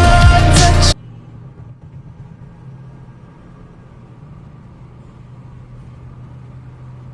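A pop song playing loudly cuts off abruptly about a second in. After that comes a low, steady hum with faint road noise from a vehicle driving.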